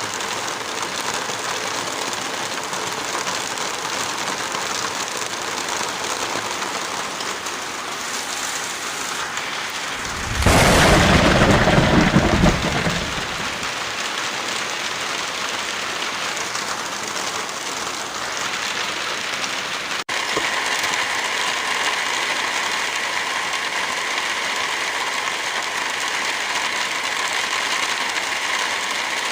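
Steady rain, with a loud rumble of thunder lasting about two seconds around a third of the way in. About two-thirds in the rain cuts out for an instant and comes back slightly louder.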